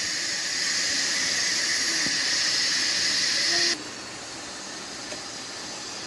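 Instant Pot pressure cooker venting steam through its release valve during a quick pressure release, a steady hiss that drops abruptly to a much fainter hiss about four seconds in.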